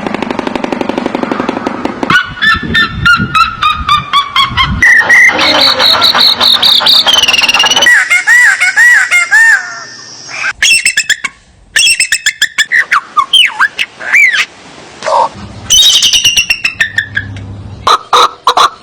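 A string of different animal calls, one after another, changing every few seconds. Mostly bird-like honking and squawking, with rapid repeated cries and some rising-and-falling whistled notes.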